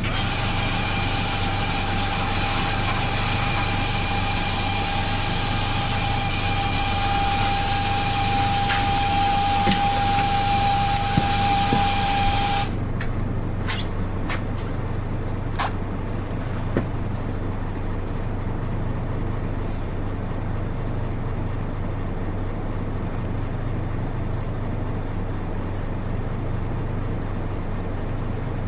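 Inside a PKG-RA274MAN city bus: the diesel engine runs with a steady low drone. For roughly the first twelve seconds a loud hiss and a steady whine sit over it, then cut off abruptly, leaving the engine drone and a few light clicks and rattles.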